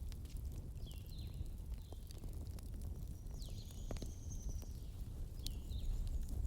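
Wood fire crackling: irregular sharp pops and ticks over a steady low rumble, with a few short high squeaks and a brief high whistle in the middle.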